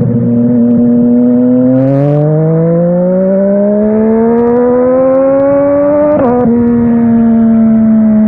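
Yamaha Tracer 900 GT's three-cylinder engine through an aftermarket WR exhaust, holding steady, then pulling up in pitch for about four seconds under acceleration. Near the end there is a quick shift up a gear, and it settles at a lower steady pitch. There is a brief hiss about two seconds in.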